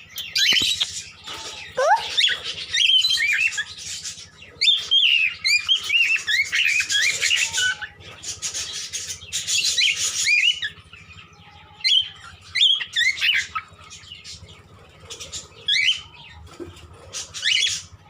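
Cockatiels chirping and calling in bursts of quick rising and falling notes, with short pauses between the bursts.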